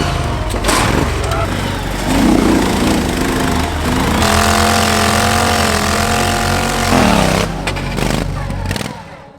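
Modified lawn tractor engine running hard under load, with people's voices over it. A steady high-rev note holds for about three seconds in the middle, and the sound cuts off abruptly near the end.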